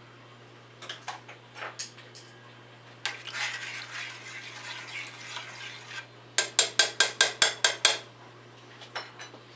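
Kitchen utensils on a cooking pot: a few scattered clinks, a few seconds of scraping, then a quick run of about nine sharp taps, about six a second.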